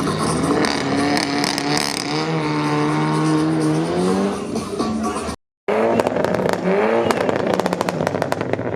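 Car engine revving hard during a stunt run, its pitch rising and falling, with tyre squeal. The sound cuts out briefly just past halfway, then the engine climbs again amid rapid crackling.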